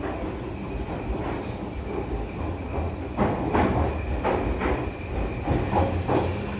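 Running sound inside a motor car of a JR Kyushu 305 series electric train: a steady low rumble from the wheels and track, with irregular knocks as the wheels pass rail joints and a faint steady high tone. A low steady tone comes in near the end.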